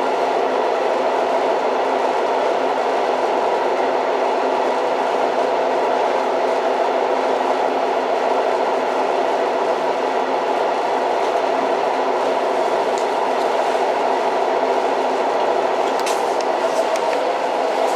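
Old train running on the rails: a steady, even rolling noise, with a few faint clicks near the end.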